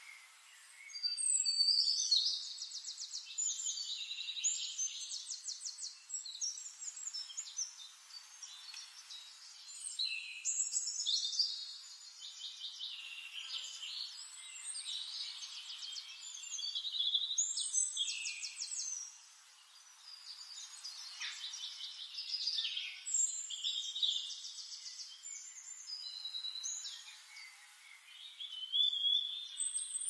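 Forest birds singing over one another in high, fast trilling phrases a few seconds long, with short lulls between bursts.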